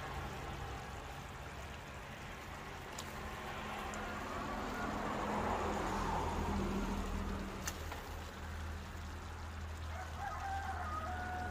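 Outdoor ambience with a steady low rumble, two sharp clicks about three and eight seconds in, and a bird calling in short pitched notes near the end.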